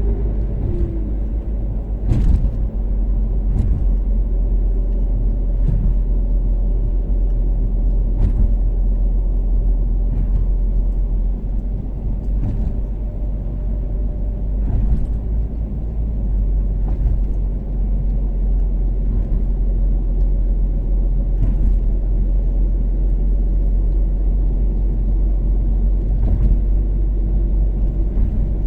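Toyota Caldina's turbocharged 3S-GTE four-cylinder running at a steady cruise, a deep, even drone with heavy road rumble. Brief knocks come now and then over it.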